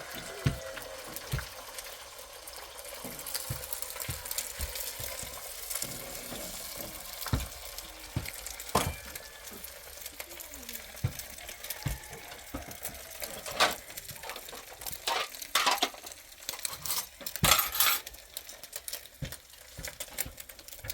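Scattered clinks and knocks of utensils and dishes over a steady hiss, busier and louder in the second half.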